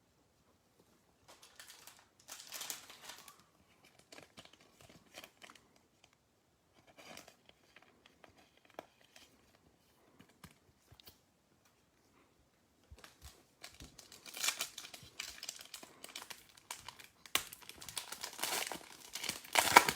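Trading card pack wrappers crinkling and being torn open as the next pack is opened. It comes in short scattered bursts at first and gets busier and louder in the last several seconds.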